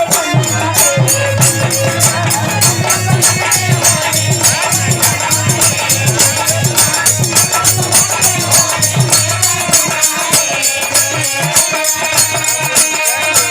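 Instrumental break in Bhojpuri birha folk music: a fast, steady beat of jingling, rattling percussion under a melody line.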